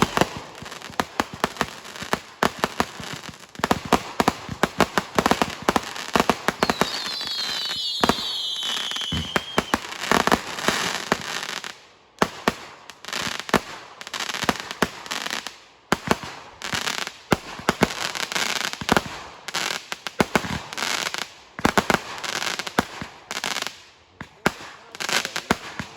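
Fireworks going off in quick succession: a dense run of sharp bangs and crackles, with several whistles falling in pitch about seven to nine seconds in.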